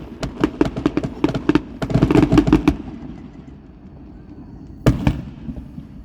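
Fireworks going off: a rapid string of sharp crackling pops for about the first three seconds that dies away, then a single loud bang near the end followed by a few smaller pops.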